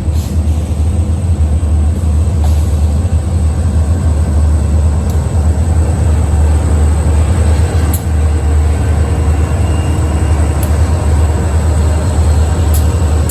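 Freight train rolling past: a loud, steady low rumble of wheels on rail, with a few sharp clicks along the way.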